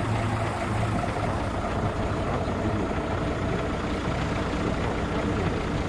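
Heavy truck engine running steadily at low revs.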